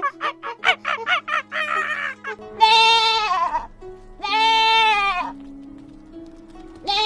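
A run of short, quick animal calls for about two seconds, then two long bleats of about a second each, falling in pitch at the end, over background music.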